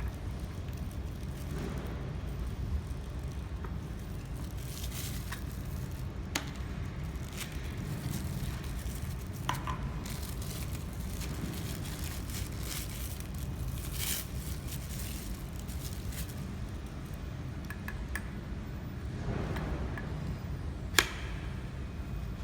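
Steady low machine hum with scattered clicks and light clinks of tools and metal parts being handled while the welder's microscope is removed and fitted; one sharp click stands out near the end.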